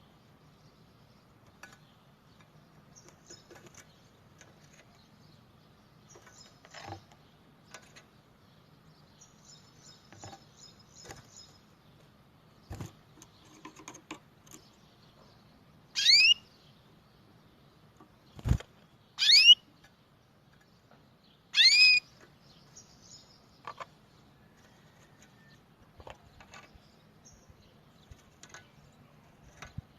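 Canary calling sparsely: soft high chirps and short trills, then three loud calls that sweep steeply downward in pitch, a few seconds apart, past the middle. A sharp click sounds between the first two loud calls, over a faint steady low hum.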